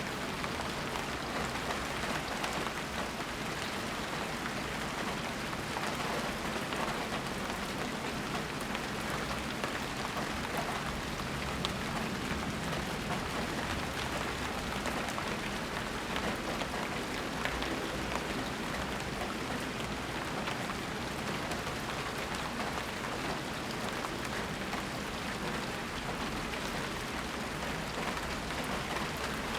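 Steady rain falling, a continuous hiss with many small drop ticks, with no thunder.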